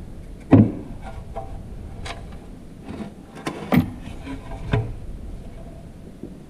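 Irregular metal clanks and knocks, about five of them, the loudest about half a second in and again near the middle: tools and parts handled while taking apart a Ford E4OD automatic transmission.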